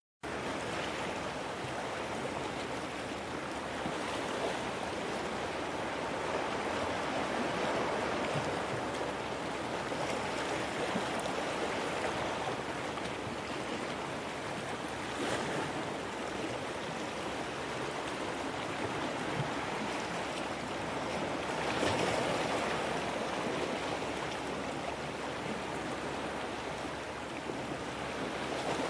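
Rushing water played as a relaxing background sound: a steady wash that cuts in abruptly at the very start and swells gently twice.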